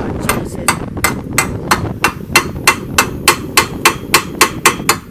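Rapid, even metal-on-metal hammering, about four or five sharp strikes a second, with a steady low rumble under it.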